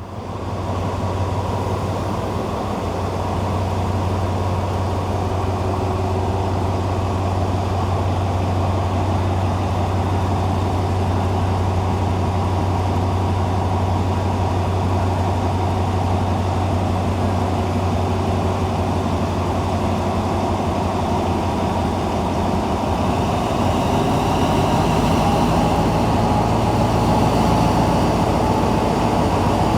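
Diesel train engine running close by with a steady low drone. About three-quarters of the way through, its pitch shifts, it gets louder and a higher whine joins in, as when the engine is throttled up.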